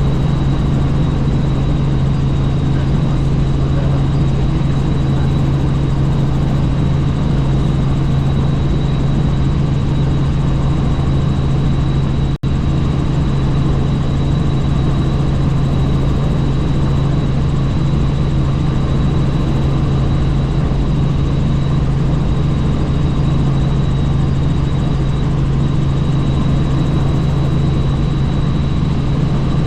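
Helicopter in flight heard from on board: a steady, loud drone of rotor and engine with a thin high whine and rushing wind noise, broken by a momentary dropout about twelve seconds in.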